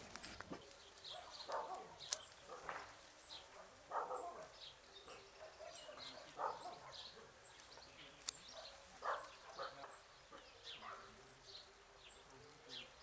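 Small birds chirping over and over, with several louder, lower animal calls every two to three seconds and a couple of sharp clicks.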